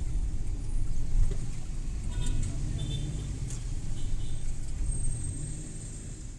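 Suzuki Every Wagon kei van driving along a city street: steady low engine and road rumble, fading toward the end.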